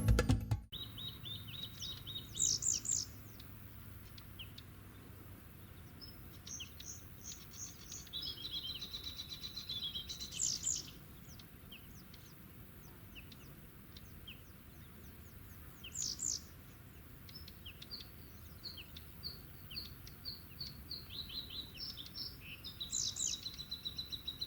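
Wild birds calling outdoors: short phrases of rapid high chirps and trills, with occasional quick falling whistles. The louder phrases come about two seconds in, near the middle and near the end, over a faint background hiss.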